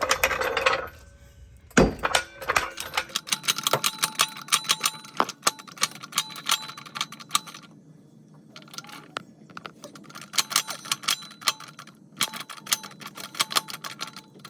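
Metal clicking and rattling from a Pittsburgh 3-ton low-profile floor jack being moved and set into place under a truck, with a heavy thud about two seconds in and a fast, uneven run of clicks after it.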